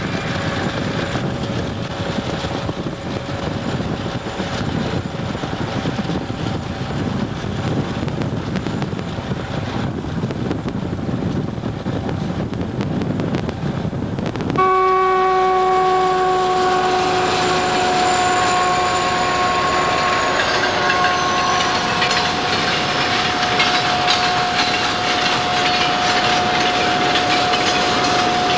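Freight train with a snowplow on the head end running through snow: first an even rushing rumble, then, after an abrupt change about halfway, a locomotive horn held on one long steady note over the train's running noise.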